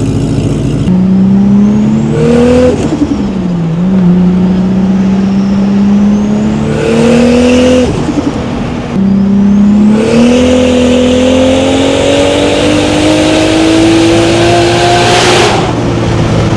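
Big single-turbo Toyota Supra MK4's 2JZ-GTE straight-six at full throttle, pulling hard through the gears. Its pitch climbs in long runs with shifts about 3 and 8 seconds in, a high turbo whistle rises at the start of each pull, and there is a burst of hiss when it lets off near the end. It keeps pulling at the top end without tapering off.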